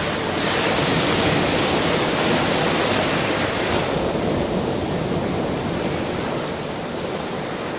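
Ocean surf: a wave breaks and washes in, its hiss swelling about half a second in and easing off after about four seconds into a softer, steady wash.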